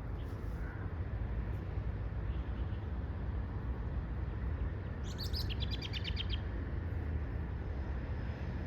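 A songbird sings one quick trill of rapid, evenly spaced high notes lasting about a second and a half, about five seconds in. Under it runs a steady low rumble.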